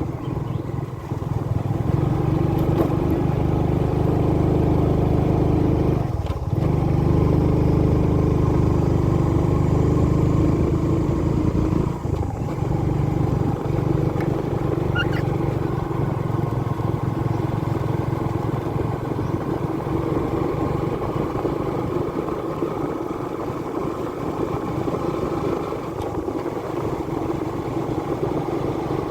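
Motorbike engine running steadily while riding, with a brief break in the sound about six seconds in and again about twelve seconds in.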